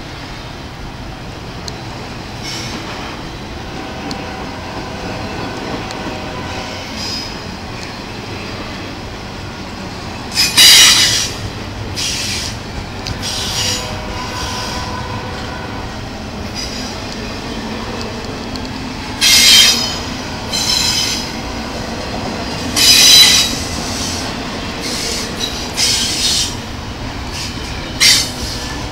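Double-stack intermodal freight train rolling past: a steady rumble of the well cars on the rails, cut by repeated sharp, high-pitched metallic squeals several times. The loudest squeals come about a third of the way through and twice more around two-thirds of the way.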